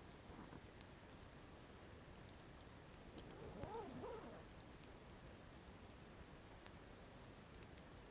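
Campfire burning quietly, with sparse faint crackles and pops from the burning wood. About three and a half seconds in, a brief faint call rises and falls in pitch.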